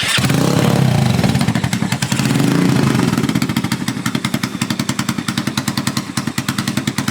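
Single-cylinder engine of a 125 cc Grom-style mini bike with an aftermarket exhaust and a re-jetted carburettor, just started. It is revved up a couple of times in the first three seconds, then settles into a steady, fast, choppy idle of loud exhaust pulses.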